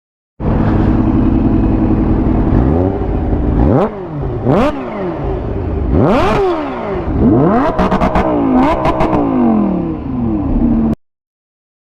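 Motorcycle engine revving hard several times, its pitch climbing and dropping, with a run of quick blips in the second half; it starts and cuts off abruptly.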